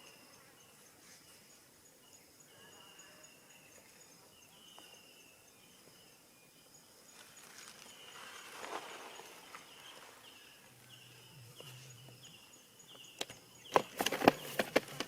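Insects chirping and buzzing in a steady outdoor chorus, with short repeated chirps. Near the end, a quick run of sharp clicks and knocks, louder than the chorus.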